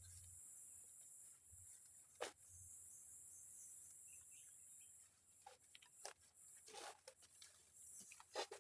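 Faint forest ambience: a steady high-pitched hiss that fades after about five seconds, with a few short clicks scattered through.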